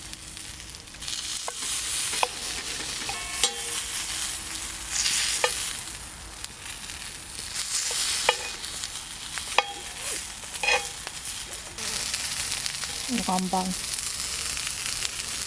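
Marinated pork ribs frying with a steady sizzle, with scattered sharp clicks now and then.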